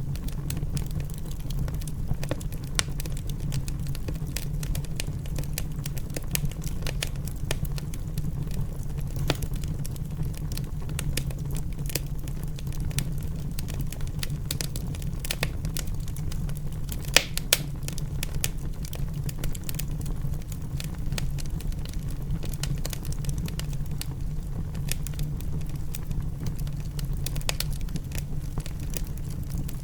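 Wood fire crackling and popping in a fireplace: many small irregular crackles over a steady low rumble, with a couple of sharper, louder pops about two-thirds of the way through.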